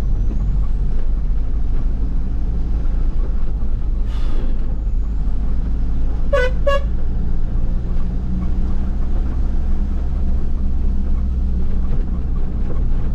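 A manual car's engine and road noise hum steadily while driving in fourth gear. Two quick horn toots sound about six and a half seconds in.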